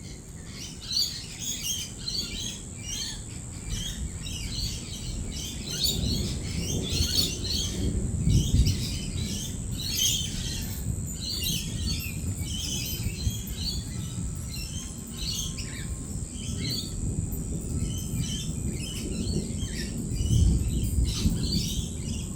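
A flock of lorikeets chattering with dense high chirps and calls throughout, over rolling thunder that rumbles low, swelling about six to nine seconds in and again near the end.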